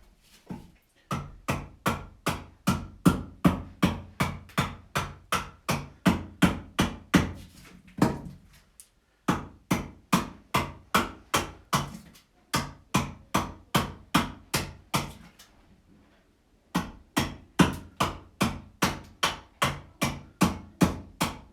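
Carving axe chopping into a wooden vessel blank with quick, light, regular strokes, about three a second, in runs broken by a few short pauses.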